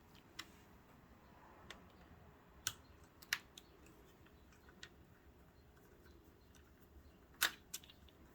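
Faint, scattered small clicks and taps, about seven in all, with the loudest a little past the middle toward the end: a screwdriver working a silver screw out of a Kenmore sewing machine's metal housing.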